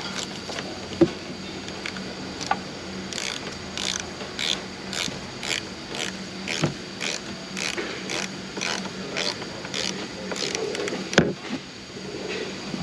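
Ratchet wrench clicking in short strokes, about two clicks a second, as the battery terminal clamp nuts are tightened down. A single sharp knock near the end.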